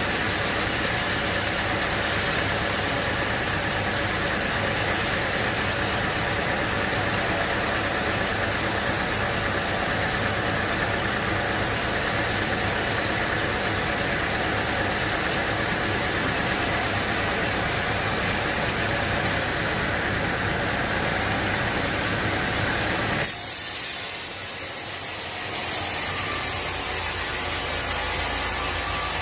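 Sawmill machinery running with a steady mechanical noise. About twenty-three seconds in, the sound changes suddenly, losing its low rumble, then carries on steadily.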